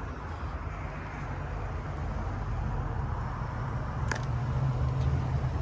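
A steady low mechanical hum that grows slightly louder, with a single sharp click about four seconds in.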